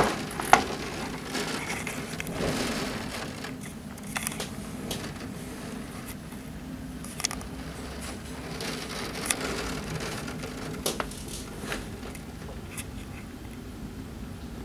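Scattered raindrops ticking against a window pane, irregular single sharp taps about a second or more apart, over a steady low hum.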